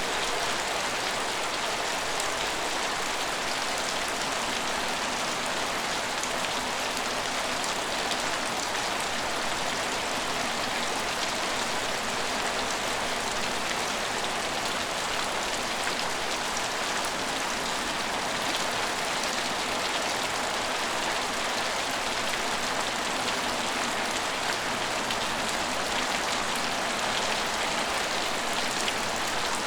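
Steady rain falling on a station's surfaces: an even hiss with scattered drip ticks.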